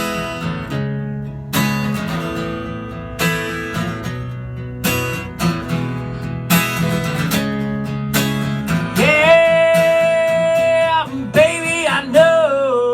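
Acoustic guitar strummed in a steady rhythm, with a strong stroke about every second and a half, as an instrumental break in a live song. About nine seconds in, a long held melodic note joins it, followed by a few shorter wavering notes near the end.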